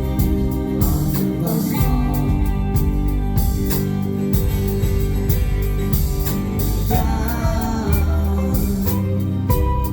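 Live band performance: electric and acoustic guitars, bass and drums playing at a steady beat, with sung vocals, heard as recorded from the audience.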